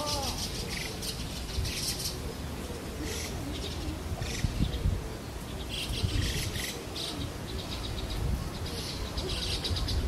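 Wild birds chirping: short bouts of quick, high chirps, about one bout every second.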